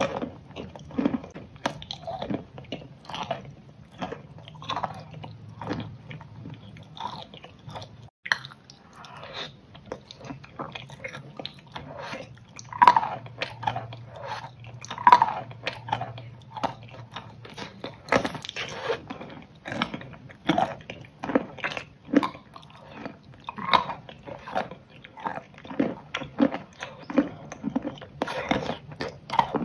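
Close-miked chewing of soft steamed momo dumplings: an irregular, unbroken run of short mouth clicks, several a second.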